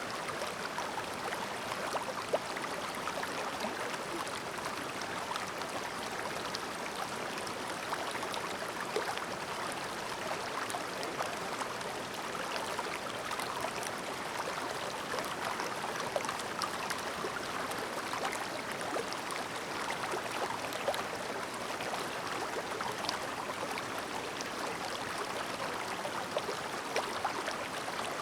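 Shallow, clear mountain stream babbling over stones, a steady rush of water flecked with small splashes and drips.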